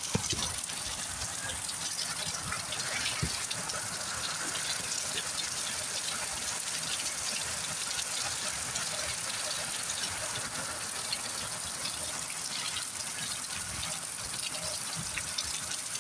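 Heavy rain falling steadily, a continuous hiss of rain with many small drops ticking and splashing close by.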